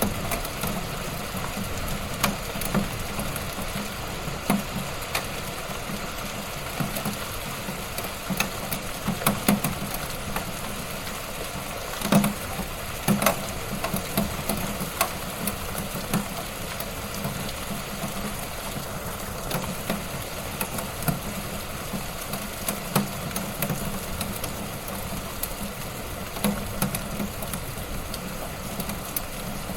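Fire burning in a fireplace, crackling: irregular pops and snaps over a steady rush of flames, with a cluster of louder pops about twelve seconds in.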